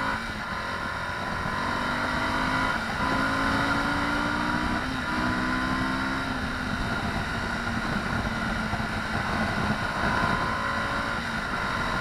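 Suzuki V-Strom 1050XT's 1037 cc V-twin accelerating hard through the gears. Its pitch climbs and drops back at each upshift, at the start and about three and five seconds in, then runs on steadily under constant wind rush.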